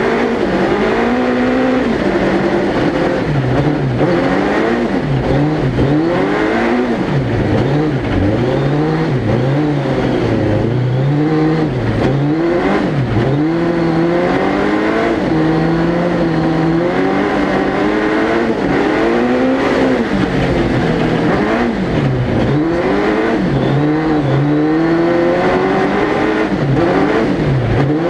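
Suzuki Hayabusa 1300 cc motorcycle engine in a four-wheel-drive prototype car, driven hard around a circuit: the revs climb and drop again and again, with repeated gear changes and lifts between bursts of acceleration.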